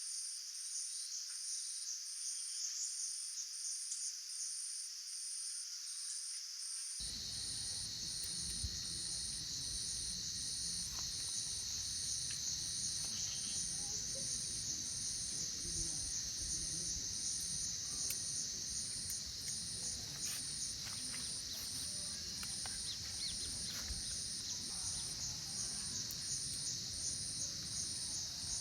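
Insects chorusing: a steady high buzzing trill with a higher chirp pulsing at an even beat. A low rumbling noise sets in abruptly about seven seconds in.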